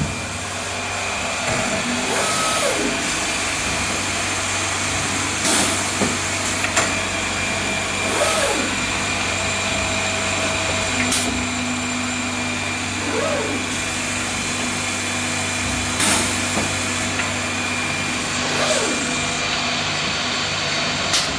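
SCM Startech CNC woodworking machining centre running with a steady whirring drone. A sharp click comes every few seconds, and brief whines rise and fall as the machine moves.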